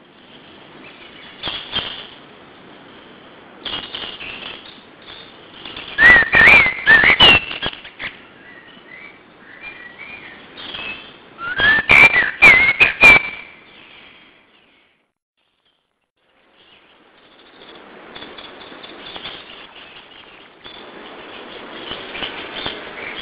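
A songbird singing: loud bursts of quick whistled notes that glide up and down, mixed with sharp clicks, about six and twelve seconds in. Softer chirps come between the bursts, and there is a short break of silence about two-thirds of the way through.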